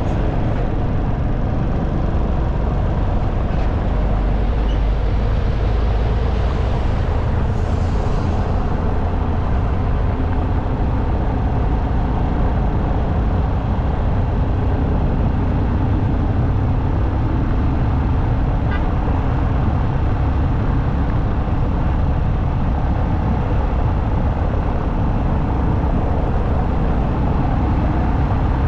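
Steady wind and road noise from a motorcycle riding at highway speed, with a low drone of the engine underneath. There is a brief hiss about seven seconds in.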